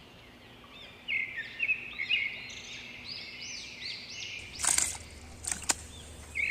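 A bird chirping: a series of short, arched, high notes repeated in quick clusters. About five seconds in there is a brief noisy burst, followed by a single sharp click.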